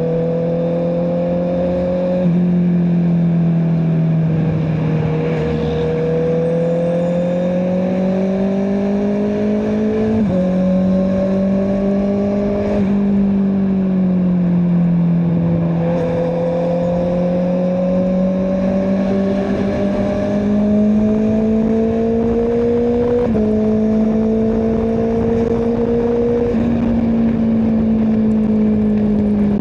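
Honda CBR650R inline-four with an Akrapovic exhaust, running under way at moderate revs. Its pitch climbs and eases slowly, and it steps abruptly about five times with gear changes.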